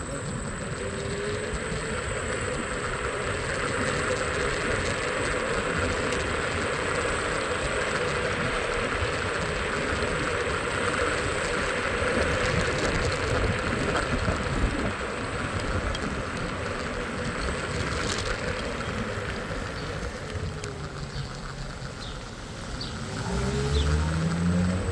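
Scooter riding through city traffic: its engine running under steady road noise, with short rising revs a few times and a stronger rev near the end.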